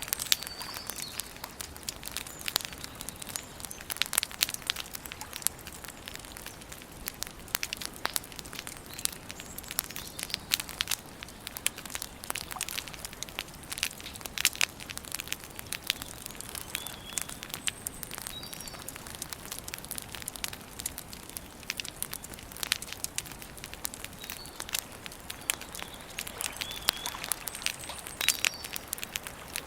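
Wood campfire crackling, with a dense run of sharp pops and snaps. Short high bird chirps come in a few times.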